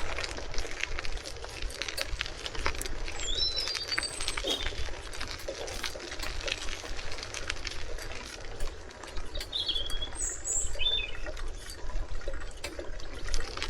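Birds chirping in short bursts of high calls, about three seconds in and again around ten seconds. Under them run a steady low rumble and many small scattered clicks.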